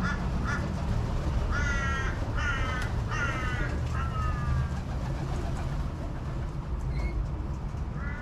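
A crow cawing: a couple of short calls, then four drawn-out caws in a row, over a steady low rumble.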